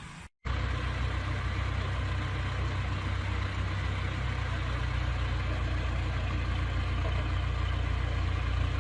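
A heavy vehicle's engine running steadily with a low, even drone, starting just after a brief cut to silence.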